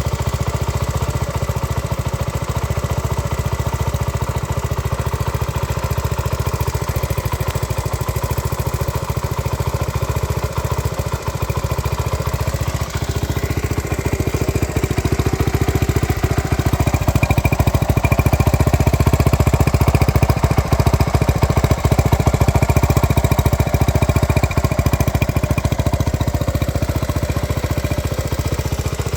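1970 Honda CT70H's small four-stroke single-cylinder engine running on its own while warming up from a cold start, with a fast, even putter. About fifteen seconds in it picks up to a faster, louder run, then drops back near the end.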